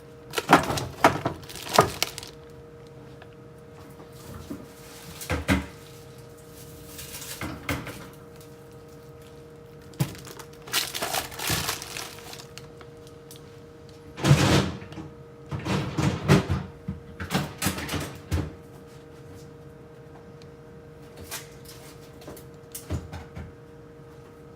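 Food containers and packages being taken out of a refrigerator and set down on a counter: scattered knocks, clatters and rustling in bursts, busiest near the start and again in the second half, over a steady hum.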